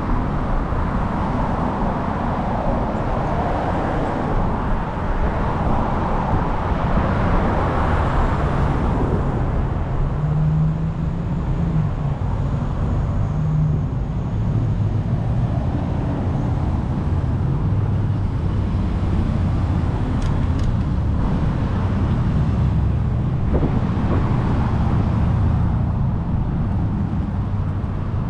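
Steady rumbling wind and road noise from a bicycle ride, with motor traffic passing.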